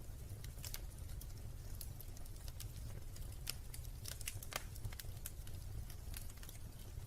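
Wood fire in a fireplace crackling: irregular sharp pops and snaps, a few each second, over a steady low rumble.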